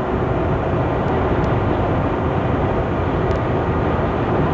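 Steady road noise inside a moving truck's cab: engine drone with tyre and wind noise.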